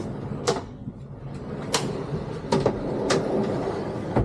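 A few sharp knocks and clicks, about four spread over the few seconds, over a steady low hum.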